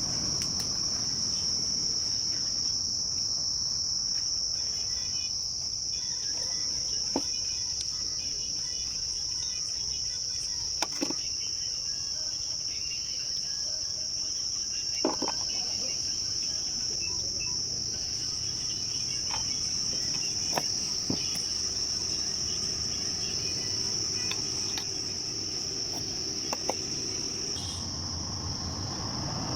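Insects shrilling in one steady high note, with a few sharp clicks and knocks scattered through.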